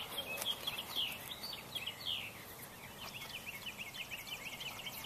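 Songbirds chirping, a busy run of short, quick high notes. A fast, even, high-pitched trill, like an insect, joins in after about three seconds.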